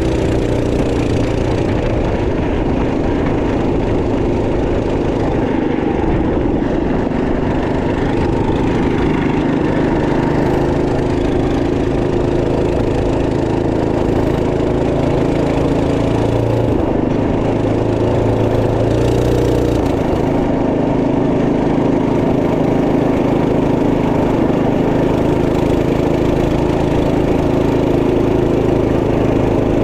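Trail Master MB200 minibike's 212cc single-cylinder engine running steadily under way, its note shifting a little in pitch partway through.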